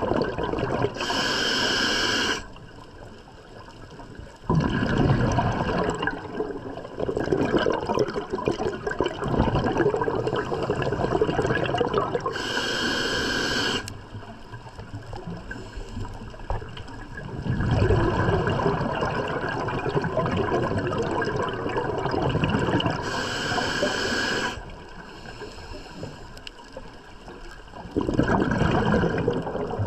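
A scuba diver's regulator breathing underwater: three short hissing inhalations through the demand valve, about eleven seconds apart, each followed after a pause by several seconds of exhaled bubbles gurgling out of the exhaust.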